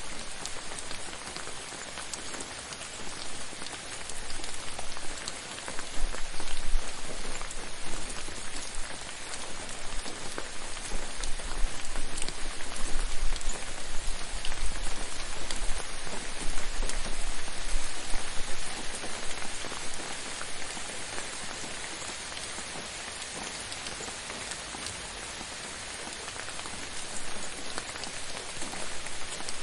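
Rain falling steadily, a dense patter of drops on a surface. It grows louder for about ten seconds in the middle, then eases back.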